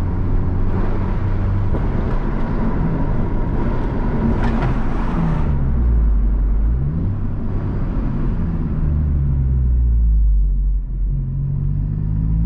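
2019 Honda Civic Type R's turbocharged 2.0-litre four-cylinder engine and tyre noise heard from inside the cabin while driving. The engine's pitch drops and rises again about halfway through, then settles into a steady low rumble.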